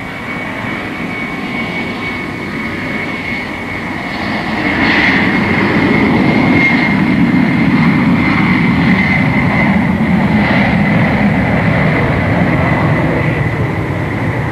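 Boeing 747 prototype's four Pratt & Whitney JT9D turbofan engines at takeoff power: a steady rushing roar with a high whine, growing louder about five seconds in.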